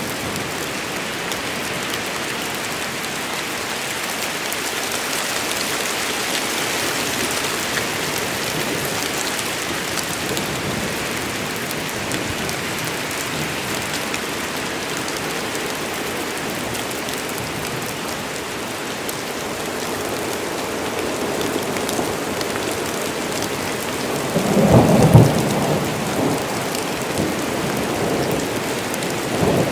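Rain falling steadily through a forest during a thunderstorm, with a loud rumble of thunder about 25 seconds in and another beginning near the end.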